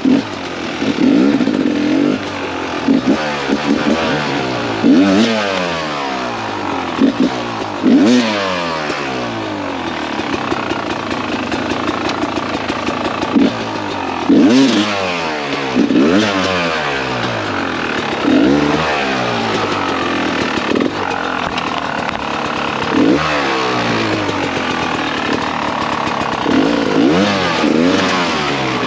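2017 Beta 300RR two-stroke dirt bike engine being ridden hard, its pitch rising and falling over and over as the throttle is opened and closed, with sharp blips around five, eight and fifteen seconds in.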